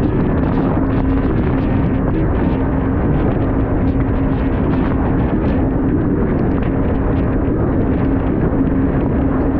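Jet ski engine running at a steady speed, a constant droning hum under heavy wind rush on the microphone.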